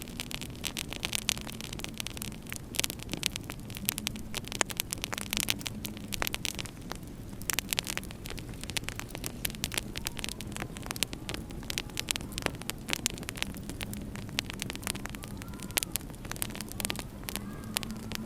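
Wood fire crackling in a fireplace, with frequent sharp pops over a steady low rumble. Near the end a faint whistle of winter wind rises and falls.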